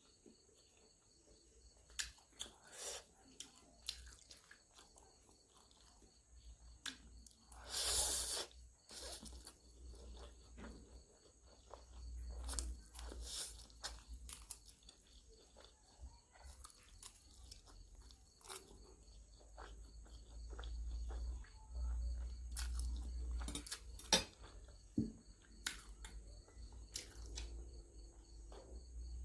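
Close-up mukbang eating sounds: chewing and biting on chicken and ramen, with many small scattered clicks and one longer, louder noise about eight seconds in.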